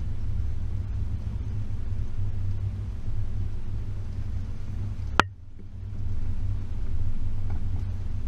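Range Rover P38's 4.0 V8 driving along a rough track, a steady low rumble of engine and drivetrain. About five seconds in there is one sharp click, and the rumble briefly dips before picking up again.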